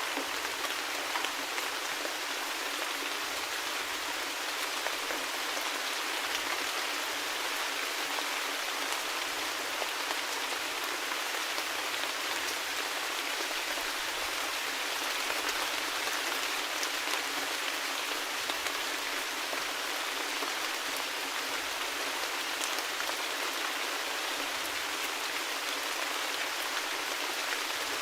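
Steady rain falling: an even hiss with scattered sharper raindrop ticks.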